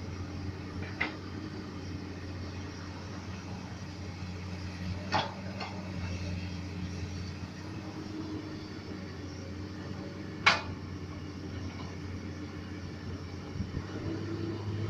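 Komatsu PC200 excavator's diesel engine running steadily as it digs, with sharp short knocks about a second in, twice around five seconds, and once, loudest, at about ten seconds.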